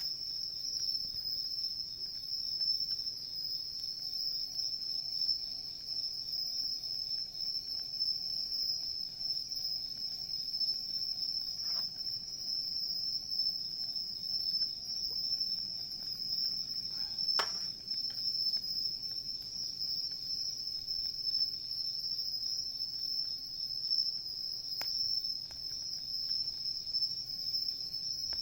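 Insects trilling steadily in a continuous high-pitched chorus, with a few faint crackles from a wood campfire.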